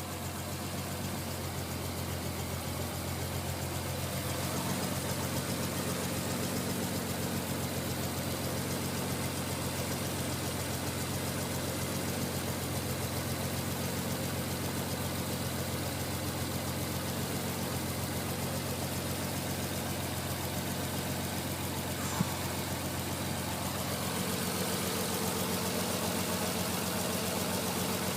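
Nissan Skyline R33's non-turbo straight-six engine idling steadily, with a single faint click about three-quarters of the way through.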